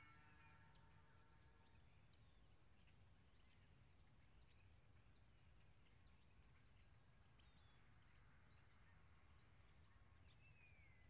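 Near silence, broken by faint, scattered chirps of small birds and a couple of short falling whistles, over a low steady rumble.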